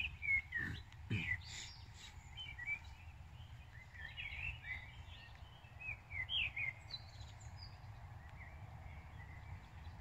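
Songbirds chirping: many short, high calls one after another, over a steady low background rumble.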